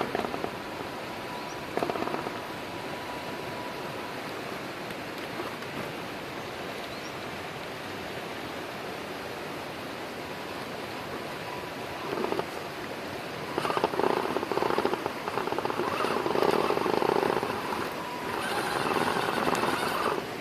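Steady rush of a fast-running creek. From about twelve seconds in, a vehicle's motor works in loud, uneven bursts over it.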